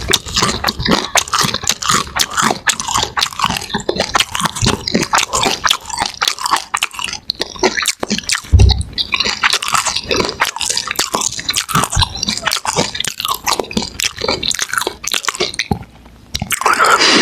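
Close-up chewing and crunching while eating fish and fries, with moist mouth sounds and irregular crackles. A louder noise comes in just before the end.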